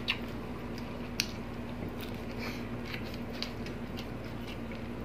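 Chewing and wet mouth sounds of people eating by hand, with a few short sharp smacks, the two clearest near the start and about a second in, over a steady low hum.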